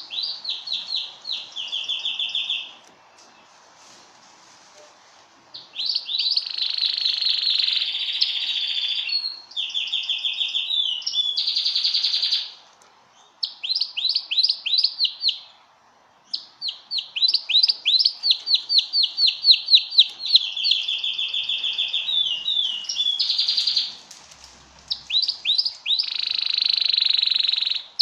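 Domestic canary singing: long phrases of fast repeated high notes and rolling trills, broken by short pauses.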